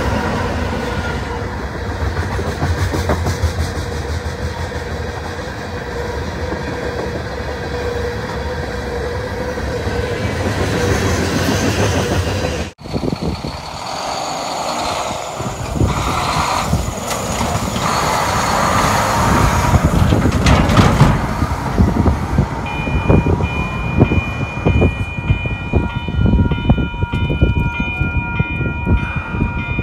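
Diesel freight locomotives passing close by: a heavy engine rumble and wheels on the rails. It breaks off suddenly a little under halfway through. From about two-thirds in, a steady chord of high tones sounds, some of them pulsing, over continued rumbling.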